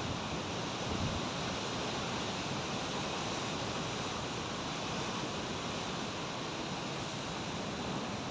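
Sea waves breaking on the shore: a steady wash of surf.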